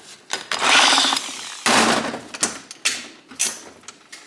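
Metal clunks, scraping and sharp clicks from a 1971 Honda SL125 gearbox's shift mechanism as it is worked by hand into first gear. The shifting is rough, which the owner puts down to the clutch cover being off. Two longer scraping sounds come in the first half, then four separate clicks.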